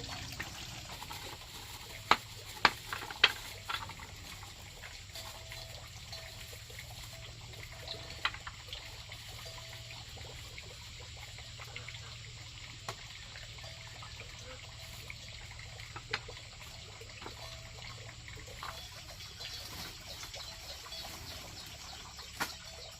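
Water trickling and splashing steadily, with a few sharp knocks, three of them close together about two to three seconds in.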